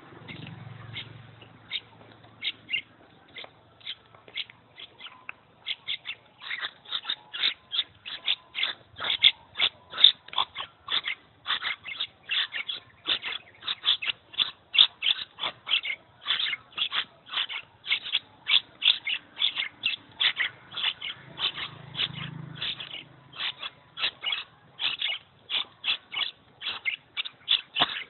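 Young birds ready to fledge calling over and over with short, sharp high cheeps, about two to three a second, sparse at first and then steady and insistent from about six seconds in.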